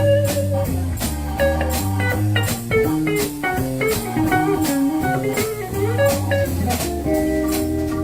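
Live blues-rock band playing an instrumental passage: electric guitar picking a melodic line over walking bass, drum kit keeping a steady beat, and organ, with no singing.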